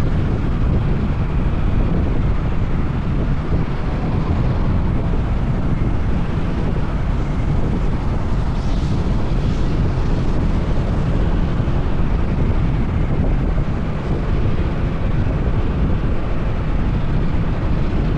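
Steady wind rumble on the camera microphone while riding a Honda PCX 160 scooter, mixed with the scooter's single-cylinder engine and tyre noise on asphalt.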